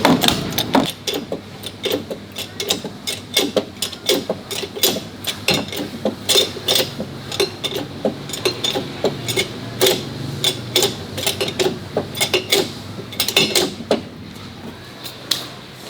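Irregular metallic clanks and knocks of hand tools on car parts, several a second, thinning out near the end.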